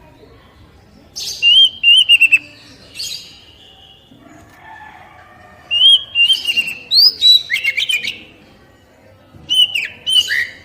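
Oriental magpie-robin (kacer poci) song: about four bursts of loud whistled notes mixed with sharp clicking chirps, separated by short pauses.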